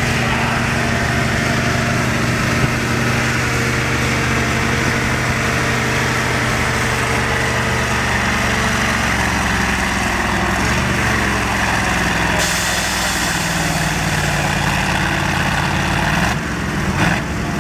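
Naturally aspirated pulling tractor engine running loud and steady, its pitch shifting up and down about halfway through.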